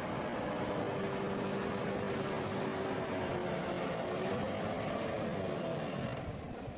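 Diesel engine of heavy earthmoving machinery running steadily, its pitch drifting slightly, and it eases off a little near the end.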